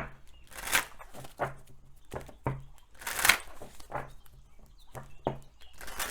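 Oracle cards being shuffled and handled: a run of short, papery swishes and rustles at uneven intervals, the loudest about a second in and again a little past the midpoint.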